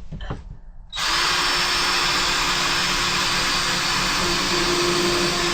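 Power drill boring a pilot hole in old barnwood so the board won't split. It starts about a second in and runs steadily at full speed.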